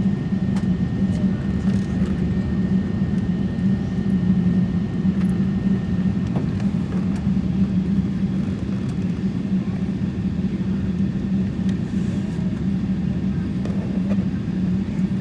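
Steady low drone inside the passenger cabin of a parked Boeing 777-224 airliner before taxi, with a faint thin high tone that fades over the first couple of seconds.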